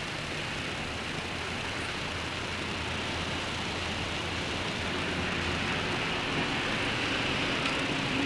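Steady rain hiss mixed with road traffic. A vehicle's low engine hum and tyre noise grow gradually louder through the second half.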